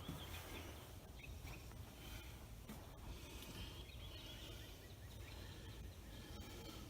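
Faint outdoor background: a low steady hum with faint, scattered bird calls.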